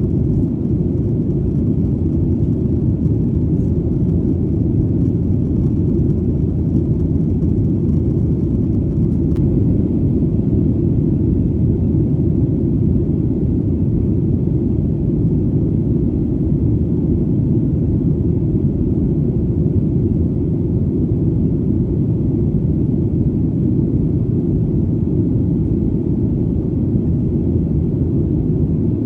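Airplane in flight: a steady, low engine rumble.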